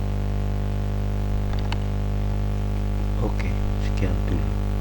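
Steady electrical mains hum, one low buzz with a stack of even overtones, with a few faint short clicks about a third of the way in and near the end.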